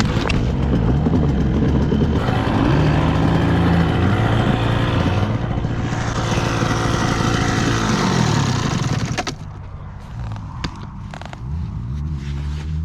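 Dirt bike engine revving up and down as it is ridden around the track. About nine seconds in it drops to a quieter, lower running note with a few sharp knocks.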